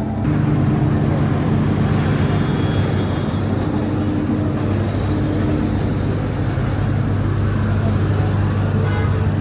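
A car engine running steadily with a low, even hum over street background noise.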